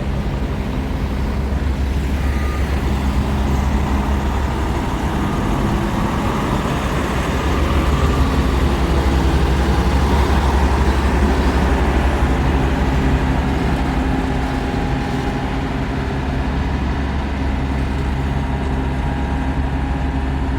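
Truck running on the road: a steady low engine drone with road noise, growing slightly louder in the middle.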